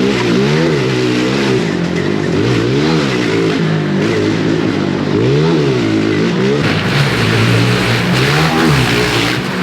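Pit bike engine revving up and down over and over as it is ridden hard around a motocross track, the throttle opening and closing about once a second. About seven seconds in, a hissing noise joins the engine.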